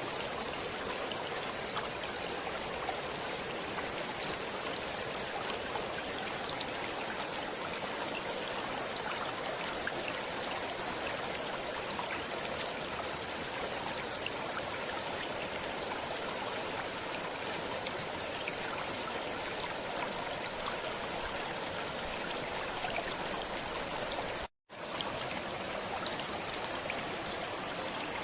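Stream water flowing and trickling, a steady rushing hiss with small splashes. The sound cuts out completely for an instant near the end, then resumes.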